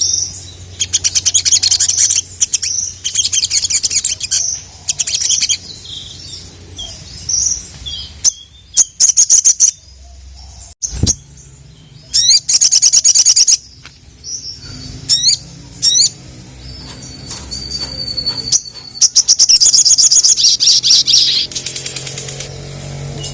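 Little spiderhunter (sogon) singing in full voice: bursts of rapid, sharp, high-pitched chirps and trills, repeated with short pauses. This is a challenge song meant to provoke rival birds into answering.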